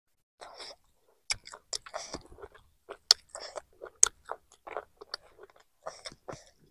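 A person chewing and biting a mouthful of chicken curry: sharp clicks mixed with short crunchy bursts at an irregular pace, starting about half a second in.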